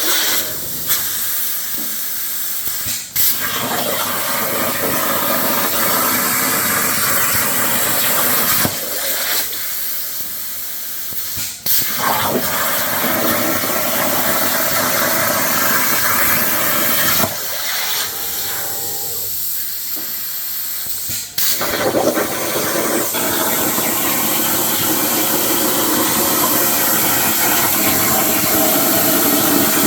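A CNC plasma cutter's torch hissing steadily as it cuts steel. The hiss drops back three times for a second or two, and each time it comes back with a sharp crack as the arc restarts.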